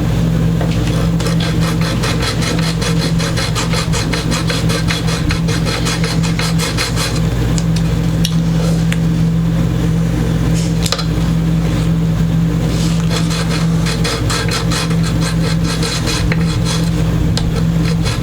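A high fret being filed down with repeated short rasping strokes of a metal file, over a steady low hum.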